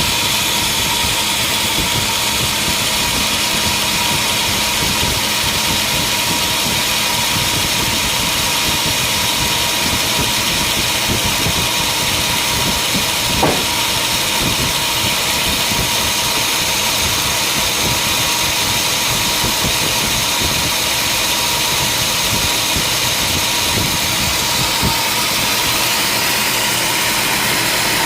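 Sawmill machinery running steadily, a loud engine-like drone with a constant high whine. One sharp knock about halfway through.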